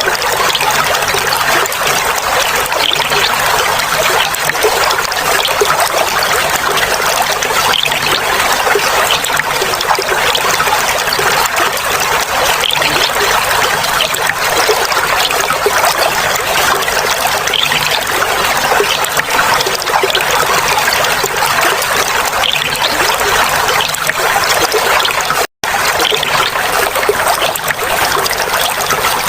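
Clear flowing water trickling and babbling steadily. The sound cuts out completely for an instant about twenty-five seconds in.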